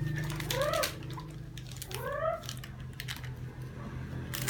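Plastic snack packet crackling and clicking as hands struggle to tear it open, with two short cries that rise and fall in pitch, one about half a second in and another about two seconds in, over a steady low hum.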